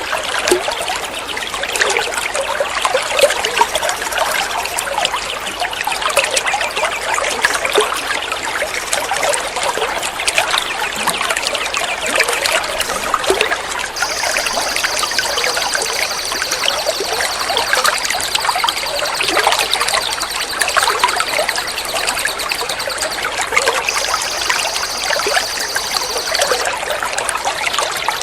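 Water trickling and flowing steadily. From about halfway a high, steady trill joins in for some twelve seconds, then stops shortly before the end.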